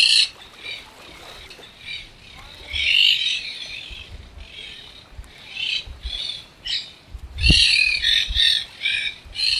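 Parrots squawking among other birds: harsh, raspy calls in short runs, with a busy burst of rapid calls in the last two seconds. There is a low thump about seven and a half seconds in.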